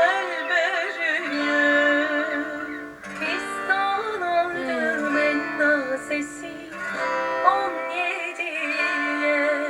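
Turkish folk song (türkü) sung with a wavering, ornamented voice over strummed and plucked guitar and other plucked strings.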